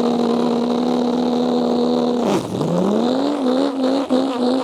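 A boy imitating a Toyota Supra's engine with his voice. He holds one steady engine note for about two seconds, lets it drop as if changing gear, then climbs back up and holds it with a slight wobble.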